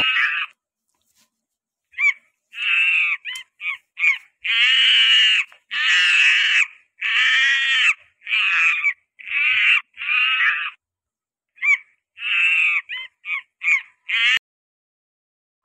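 A monkey giving a string of harsh, high screeching calls, some about a second long and some short chirps, separated by brief silences.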